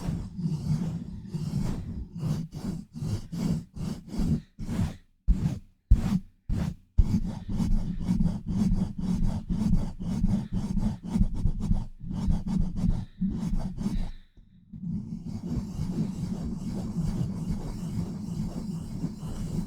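Hands rapidly rubbing, scratching and pumping over a microphone at very close range, giving fast rough strokes heavy in low rumble. The strokes break off briefly about fourteen seconds in, then pick up again as steadier, continuous rubbing.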